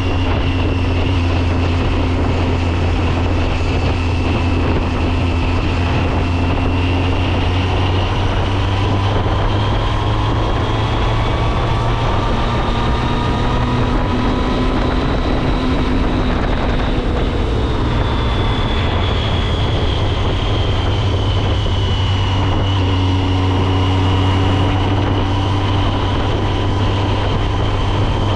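Triumph Speed Triple's 1050 cc inline-three engine running steadily under way, with a rush of wind and road noise. The engine note rises gently and then eases back down about halfway through.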